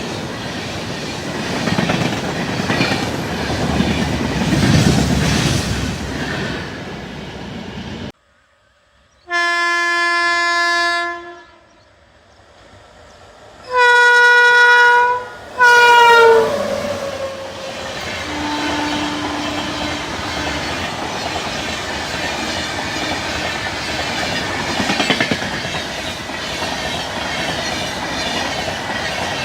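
Indian Railways train running past, its wheels clattering over the rail joints; after an abrupt break a locomotive horn sounds three times, one blast of about two seconds followed by two shorter ones, the last sagging in pitch. The rumble and clatter of a passing train then resume, with a faint distant horn held for about two seconds.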